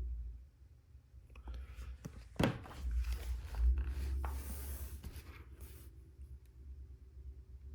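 Plastic LEGO Technic pieces being handled: a few sharp clicks and taps with some rubbing and rustling, over a steady low hum.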